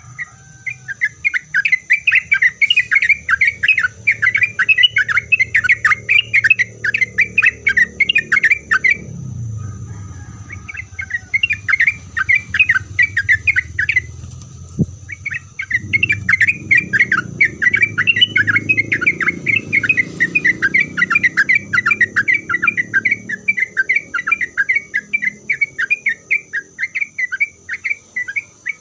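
Yellow-vented bulbul (trucukan) singing long runs of fast, repeated chattering notes, several a second, breaking off briefly twice. A steady high whine and a low background rumble run underneath.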